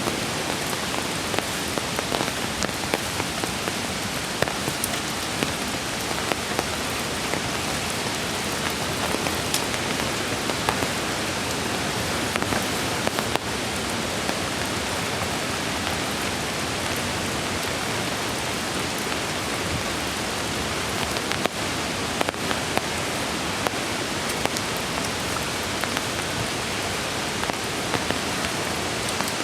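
Steady rain falling: an even hiss with many small, sharp drop impacts scattered throughout.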